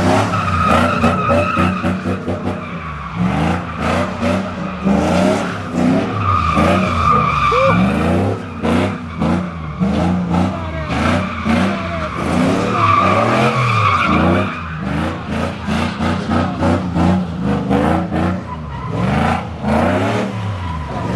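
Car doing donuts at high revs: engine pitch rising and falling over and over, with tires squealing on the pavement, the squeal coming back about every six seconds.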